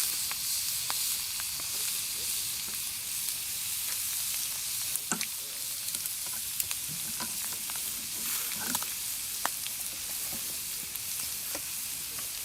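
Food frying, a steady sizzle with scattered small pops and spits.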